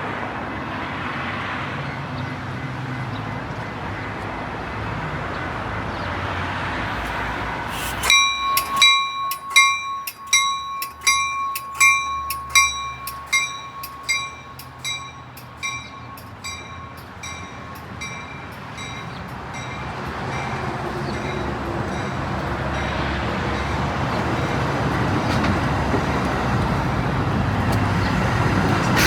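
A railroad grade-crossing warning bell starts suddenly about a quarter of the way in, striking about twice a second. Its strikes fade away over about ten seconds, as gate bells do once the gates are down. Under it and after it, the rumble of a Metra train grows louder toward the end as the train approaches.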